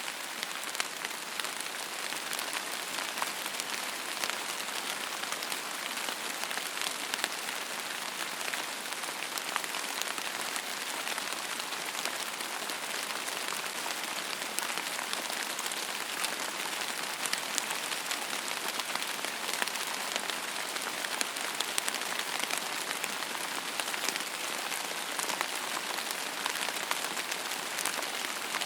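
Steady rain falling on a surface: an even hiss full of many small, quick drop ticks.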